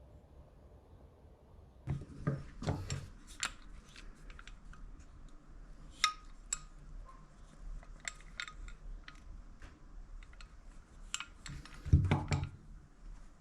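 Metal parts and hand tools being handled on a workbench: scattered small clicks and clinks, with a few heavier knocks about two seconds in and again near the end.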